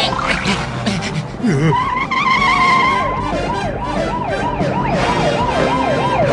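Cartoon police-car siren yelping in a fast rising-and-falling wail, about three cycles a second, starting about three seconds in. It is preceded by a held, wavering high tone.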